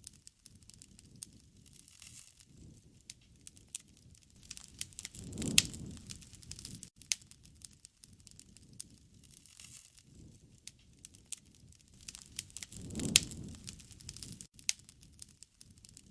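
Wood bonfire crackling, with frequent sharp pops and snaps over a low rushing of flame. The rushing swells up every seven seconds or so and is loudest about five and a half seconds in and again near thirteen seconds.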